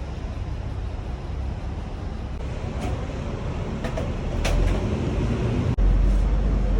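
Steady low rumble of background noise, with a few sharp clicks or taps around the middle; a sudden cut about two-thirds of the way through brings in a heavier low rumble.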